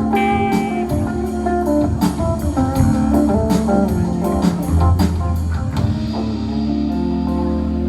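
A live band playing, with electric guitar over bass and drums; the drum hits thin out about six seconds in, leaving held guitar notes.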